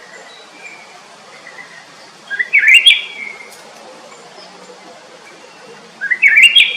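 A songbird singing two short phrases a few seconds apart, each a quick run of notes climbing in pitch, with a few faint chirps between them.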